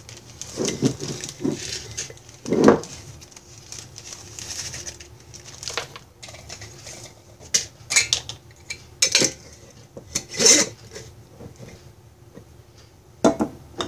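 Irregular taps and clinks of a measuring spoon against containers, with the rustle of a plastic zipper bag, as powdered cheese is spooned into the bag. The loudest is a single knock about three seconds in.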